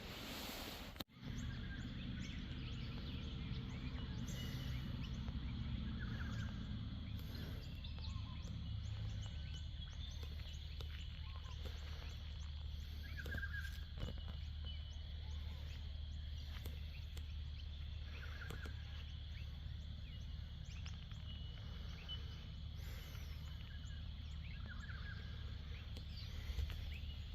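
Outdoor morning ambience: a steady low rumble with short bird chirps every few seconds.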